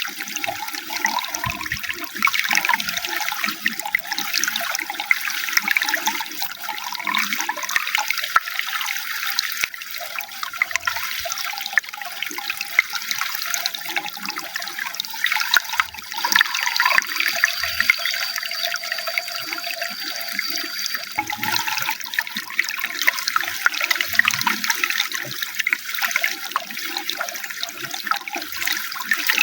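Running water flowing and splashing steadily. A faint, thin high tone is heard for about five seconds midway through.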